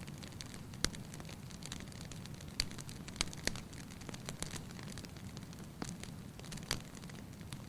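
Fireplace fire crackling: a steady low hiss with about half a dozen sharp pops at irregular intervals.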